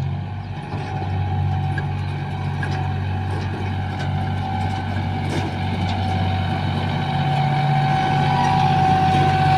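Tractor engine running steadily, slowly building a little louder, with a thin steady whine over the low engine note.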